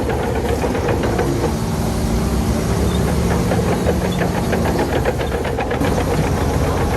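Heavy diesel engine of a crawler bulldozer running under load, with a rapid clatter that comes and goes, at about one and a half and again at four to five and a half seconds in.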